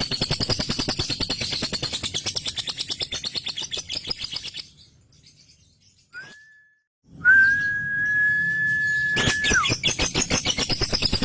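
Male lovebird chattering in a long, fast, rapid-fire trill, the 'ngekek' song, which fades out after about four seconds. After a short pause comes a brief whistle, then one long steady whistled note of about two seconds, and the rapid chattering starts again near the end.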